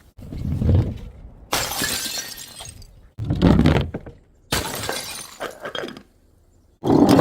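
Glass bottles smashing one after another: about five separate crashes, each a sudden break followed by shards tinkling and fading, with brief silences between.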